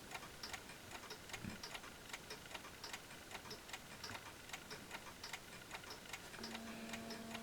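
Several mechanical clocks ticking faintly, their ticks overlapping out of step. A steady low hum comes in near the end.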